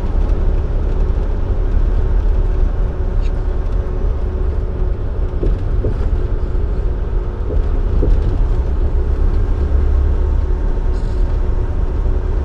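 Dump truck's diesel engine and road noise heard from inside the cab while cruising at road speed: a steady low rumble with a constant drone.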